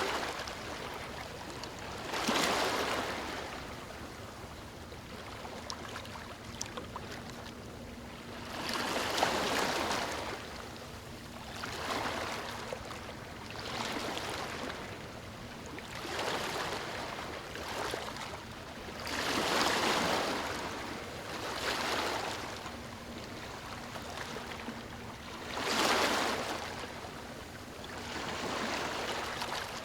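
Ocean waves washing onto a beach: a steady wash of surf with a swell of breaking water every few seconds, each rising and falling away.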